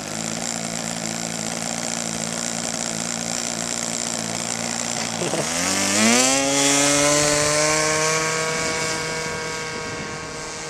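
Sig Kadet model airplane's glow-fuel engine running with a steady buzz, then opened up to full throttle about five seconds in, its pitch sweeping sharply upward for the takeoff. The high whine then sinks slowly in pitch and grows fainter as the plane climbs away.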